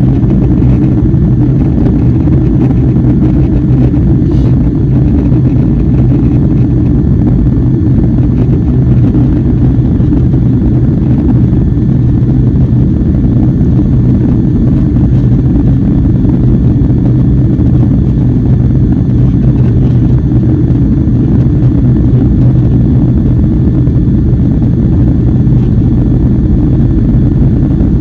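Airliner cabin noise heard from inside the cabin: a steady, loud drone of jet engines and rushing air, with a constant low hum and no change in pitch or level.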